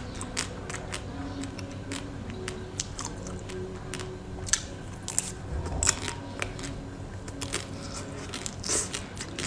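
Close-miked biting and chewing of a crunchy pink coated treat on a stick: a run of sharp crackles and crunches, the loudest about four and a half, six and nine seconds in.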